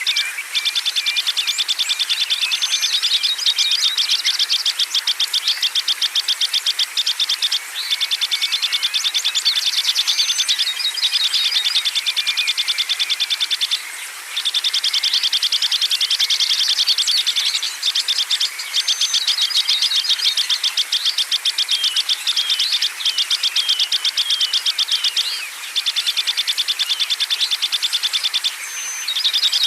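A high, rapid, evenly pulsing trill that goes on steadily and breaks off briefly a few times, with a few short high chirps over it: a songbird-therapy nature recording.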